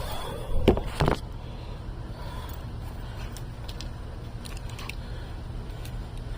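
Two sharp clicks about a second in, likely the tool working as the excess of a freshly inserted tire plug is trimmed off, over the steady low rumble of a running vehicle engine.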